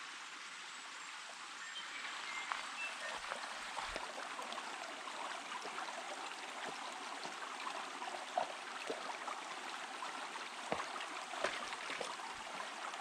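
Steady rushing of running water, like a forest stream, with a few scattered light taps.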